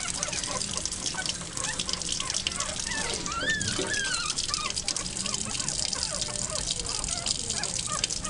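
Tap water running and splashing during a teacup poodle puppy's bath, with a few thin, high, wavering whimpers from the puppy about three seconds in.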